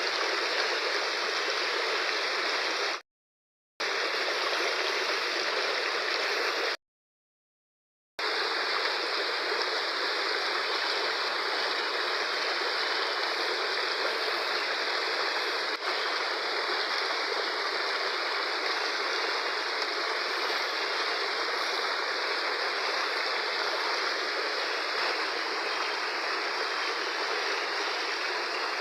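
Fast-flowing river rushing steadily, an even roar of water. The sound cuts to silence twice for about a second, early on.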